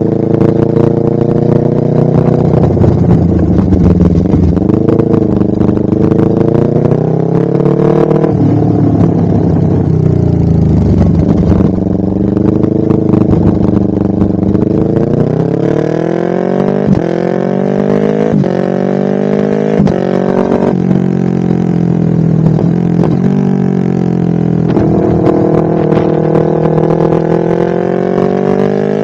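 Honda CBR250RR engine through a DST full-system aftermarket exhaust, revving up and down under way. The pitch climbs, then drops sharply again and again, as when accelerating through the gears with upshifts.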